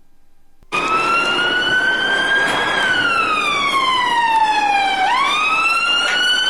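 An emergency-vehicle siren wailing. It comes in suddenly, rises slowly in pitch, then falls in one long slow glide, and near the end sweeps quickly back up before cutting off.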